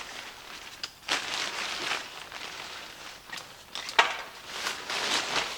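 Handling noise from an inflatable's fabric and wiring being pushed into place: irregular rustling and scraping, with a sharp click about four seconds in.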